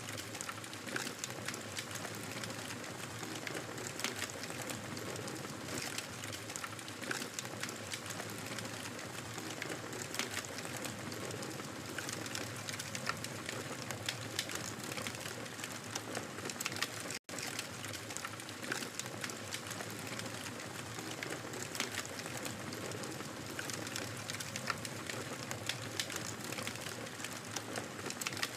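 Wood fire crackling: a steady hiss dotted with frequent sharp pops and snaps. A split-second dropout to silence cuts in a little past halfway.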